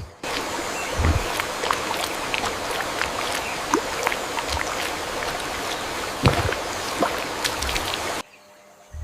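Water running and splashing: a steady rush dotted with many small sharp splashes and clicks, cutting off suddenly near the end.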